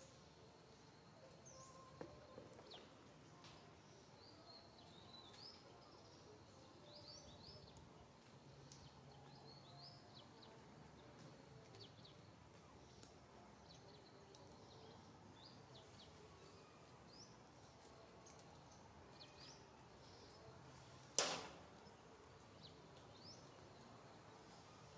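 Quiet outdoor ambience with faint, scattered short high bird chirps throughout. One sharp click cuts through near the end.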